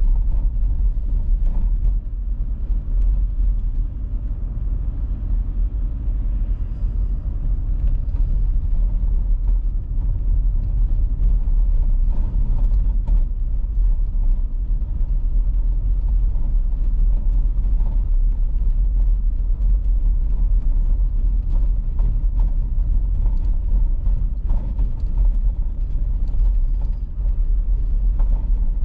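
Car driving on an icy road: a steady low rumble of tyres and engine, with scattered faint clicks.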